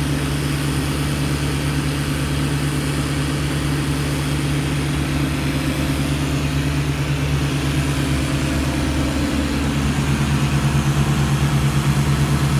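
Tree service truck engine running steadily at a low idle, growing louder with a fast, even pulse about ten seconds in.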